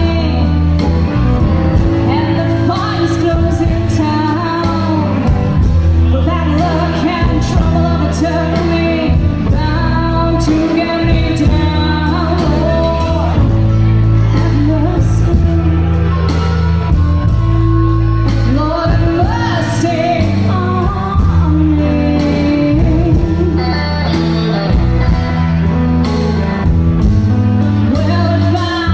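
Live blues band playing with a singer: a sung vocal line over bass and band.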